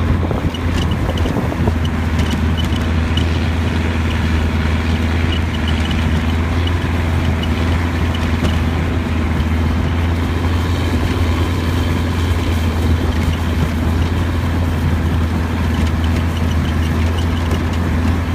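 A boat engine running steadily with a low, even drone, mixed with water and wind noise.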